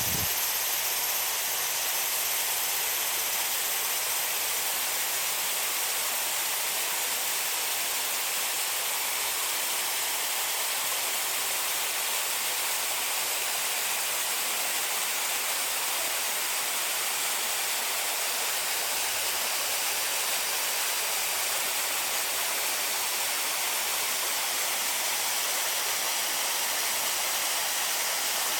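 Small garden waterfall splashing steadily, a constant even rush of falling water with little low rumble.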